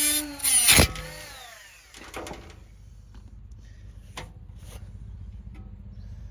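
Battery-powered angle grinder running at speed with a short louder burst of cutting, then switched off and winding down, its whine falling in pitch over about a second. Faint clicks of handling follow.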